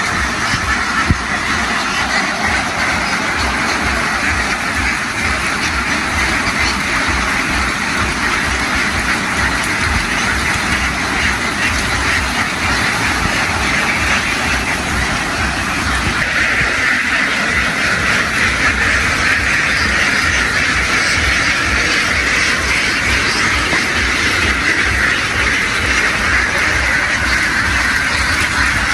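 A large flock of ducks quacking continuously, a dense chorus of many overlapping calls that grows a little louder about halfway through, over the steady low pulsing of an engine running.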